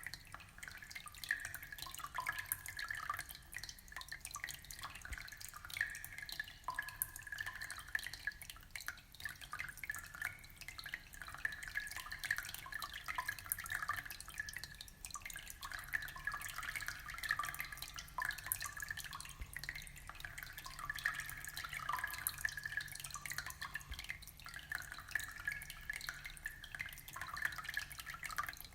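Aquarium water trickling and splashing, a steady stream of small drips and plops with no pauses.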